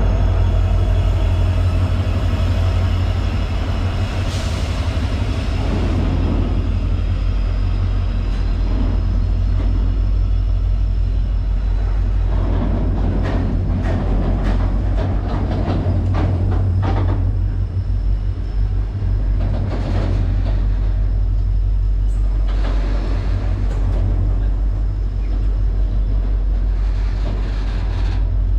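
Passenger train running on the rails: a steady low rumble with scattered clicks and knocks from the wheels, busiest around the middle.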